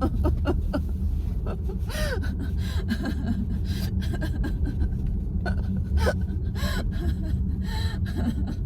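Steady low road rumble inside a VW ID.4's cabin while driving, with a few short faint vocal sounds, a breath or gasp, about two seconds in and again near six seconds.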